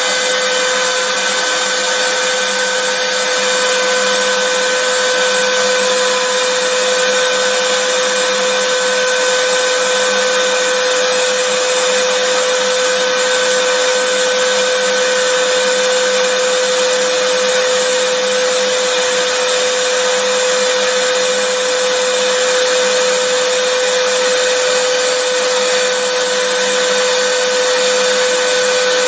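Vacuum cleaner motor running steadily, a constant rushing noise with a steady whine in it.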